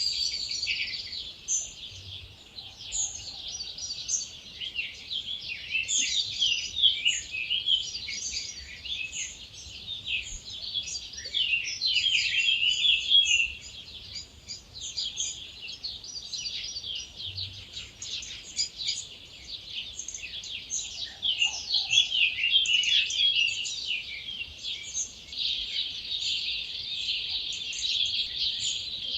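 Dawn chorus: many wild birds singing at once, a dense overlapping mix of high chirps, trills and whistled phrases.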